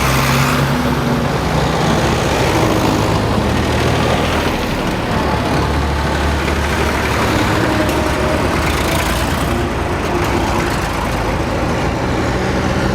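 A convoy of farm tractors driving past one after another, their engines running steadily, the engine notes changing as each one goes by.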